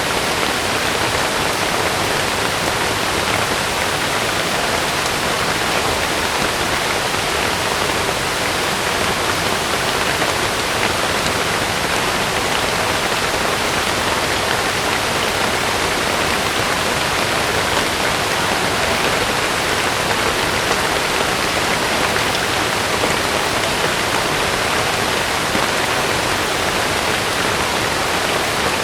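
Heavy rain falling steadily: a dense, even hiss that holds the same level throughout, with no thunder.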